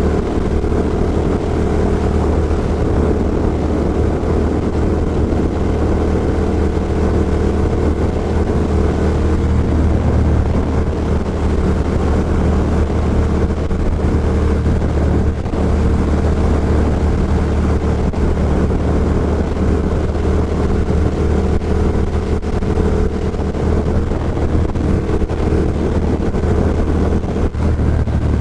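Ducati Diavel Carbon's L-twin engine running through an Austin Racing GP2 aftermarket exhaust while riding at a steady pace, heard from a microphone inside the rider's helmet. The engine note holds a fairly constant pitch, with some wind noise.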